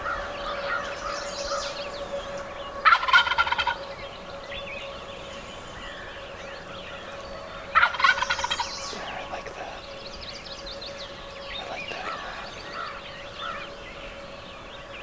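Wild turkey gobbler gobbling twice, about five seconds apart, over the chirping of small songbirds.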